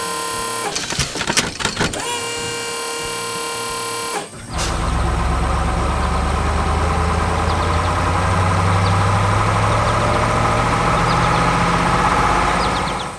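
Heavy diesel engine of construction machinery running hard, its pitch creeping slowly upward. Before it comes in, about four seconds in, there are a few seconds of a steady whine broken by a cluster of sharp knocks.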